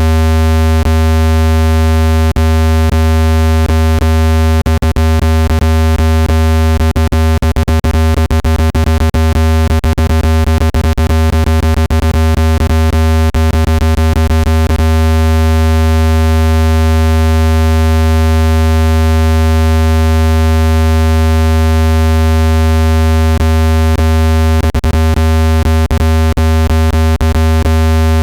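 Speaker dust-cleaning tone: a loud, steady, deep synthesized buzz with a stack of overtones, made to vibrate a phone speaker's membrane and shake dust out. Rapid sharp clicks break through it for much of the first half and again near the end.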